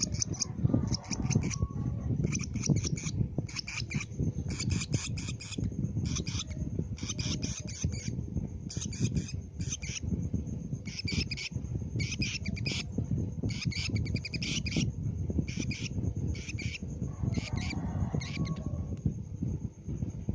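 Lovebird chirping in repeated bursts of rapid, high-pitched chattering calls, about one burst a second, over a low rumble.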